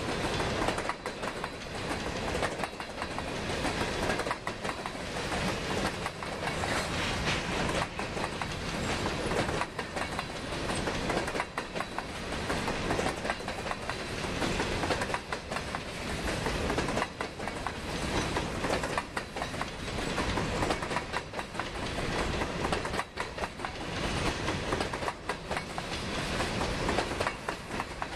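Covered hopper cars of a loaded grain train rolling steadily past, their wheels clattering over the rail joints in a continuous run of clicks.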